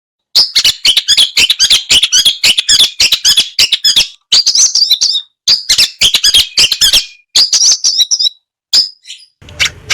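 Long-tailed shrike (cendet) singing a dense torrent of rapid, harsh notes and quick mimicked phrases, starting abruptly and broken by a few short pauses before stopping near the end.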